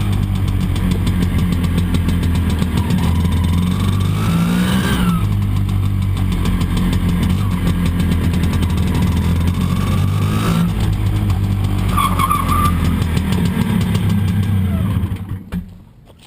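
Vespa Primavera 125 ET3's two-stroke single-cylinder engine through a SITO exhaust, under way: its pitch rises twice under acceleration and drops sharply at each gear change, then the engine sound dies away near the end.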